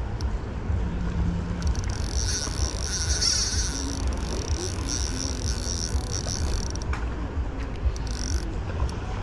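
Spinning reel's drag buzzing as a strong hooked fish pulls line off. It runs for about five seconds, stops abruptly, then gives one more short burst near the end, over a steady low rumble of wind on the microphone.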